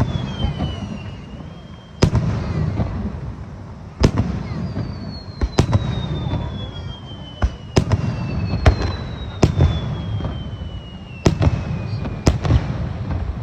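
Aerial fireworks going off: a string of sharp bangs, about nine, a second or two apart, over a continuous low rumble of bursts. Twice a high whistling tone slides slowly down in pitch over several seconds.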